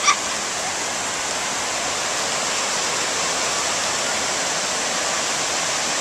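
Ocean surf washing steadily. A brief high-pitched cry from a voice right at the start.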